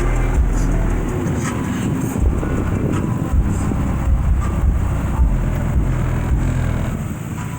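Deep, loud bass notes from a car audio system's two 15-inch subwoofers playing a song, the low notes changing and cutting in and out in blocks.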